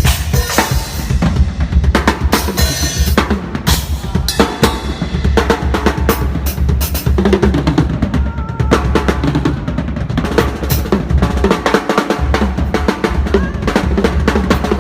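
A drum kit being played: a steady, heavy bass drum under rapid snare and cymbal hits throughout, with some pitched music underneath.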